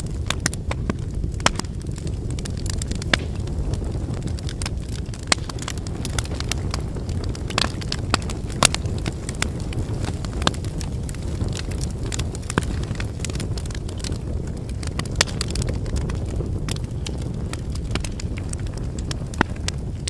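Wood fire burning: a steady low rumble of flames with irregular sharp crackles and pops from the burning logs, a few louder snaps every couple of seconds.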